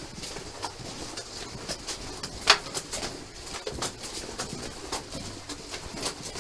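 Irregular sharp clicks and knocks, with one much louder knock about two and a half seconds in.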